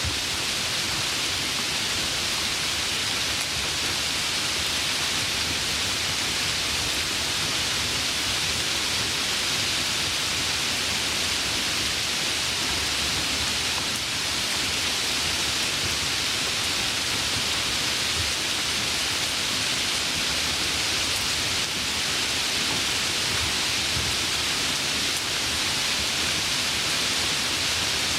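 Steady rain falling: a dense, even hiss with no single drops or thunder standing out.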